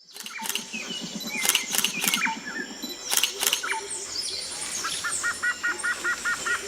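Recorded jungle ambience of assorted birds chirping and calling, with a quick run of evenly repeated two-note calls in the second half.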